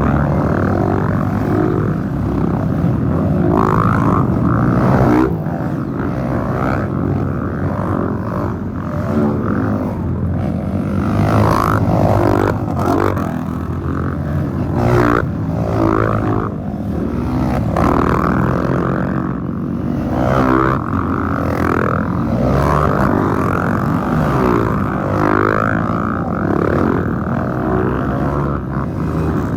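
Several dirt-bike engines revving up and down as trail motorcycles pass one after another, the pitch rising and falling over and over without a break.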